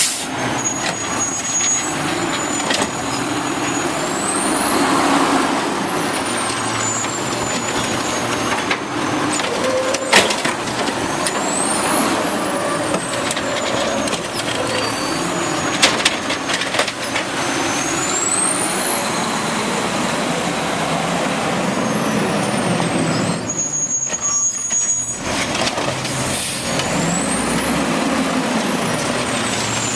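Automated side-load garbage truck running, with a high whine that rises and falls four times over several seconds each.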